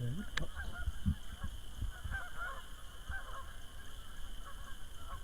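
Waterfowl calling: a string of short calls about every half second, fading out after the first three seconds or so. There is a sharp click about half a second in.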